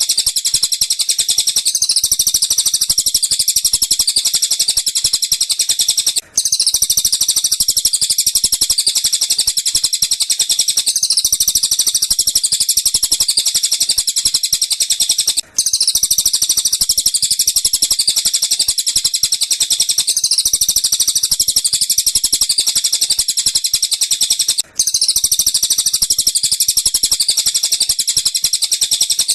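Dense, rapid high-pitched bird chirping and trilling from tengkek buto and cililin calls, played as a masteran (song-training) track for lovebirds. The recording loops about every nine seconds, with a brief gap at each restart, three times.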